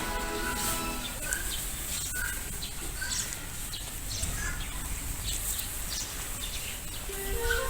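Small birds chirping in short, scattered calls over a low rumble of wind and background noise. A music track fades out about a second in and comes back near the end.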